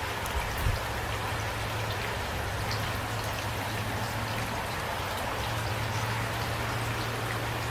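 Steady rain falling, with individual drops ticking through the hiss. A brief low thump comes under a second in.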